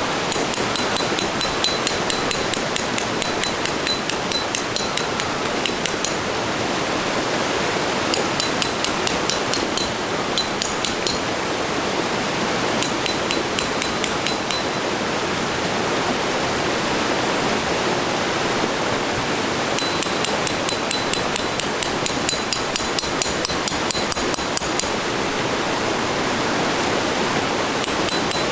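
Hammer driving metal tent stakes into the ground: runs of quick, ringing metallic strikes, about three a second, broken by pauses, over a steady rushing noise.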